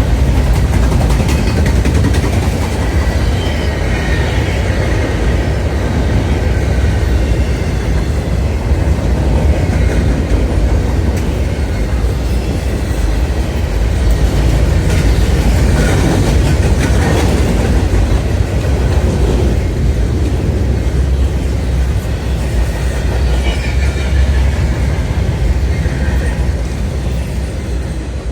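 Freight train's cars rolling past at close range: a steady heavy rumble with wheels clattering over the rail joints.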